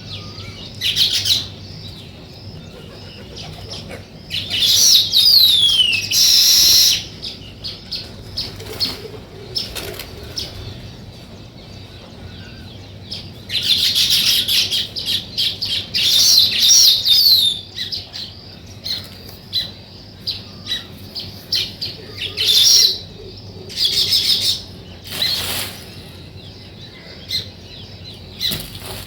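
Small songbirds chirping and twittering in irregular bursts, some calls sliding down in pitch, with the busiest, loudest chirping about five seconds in and again around the middle.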